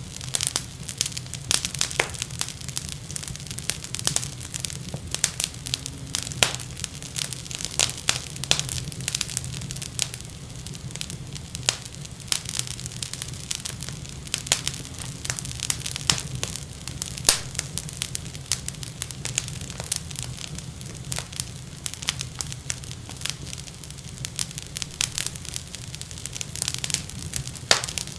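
Wood fire crackling and popping in a fireplace: many sharp, irregular snaps over a steady low rumble.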